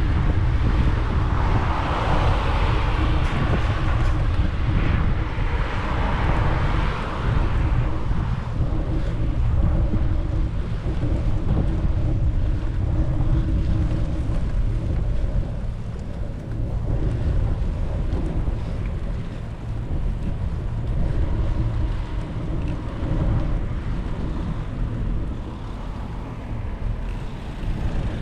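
Wind buffeting the microphone in a steady low rumble, with a brighter rushing hiss for the first several seconds.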